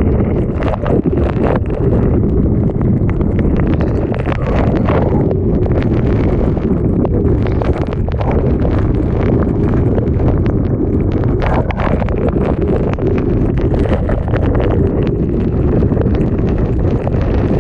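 Typhoon wind buffeting the microphone: a loud, deep, steady rumble broken by frequent sharp crackles and pops.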